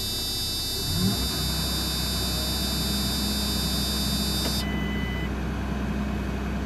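JCB Fastrac 4220 tractor's diesel engine running, heard from inside the cab. About a second in, its note briefly jumps and shifts up, then holds steady. A high whine cuts off suddenly a little after halfway.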